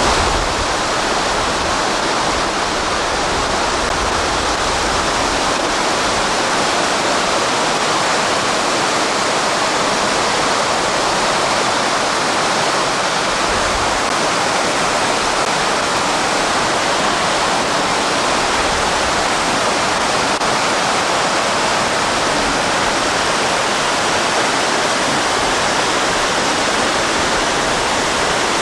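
Mountain creek rushing over stones, a loud steady roar of water close by.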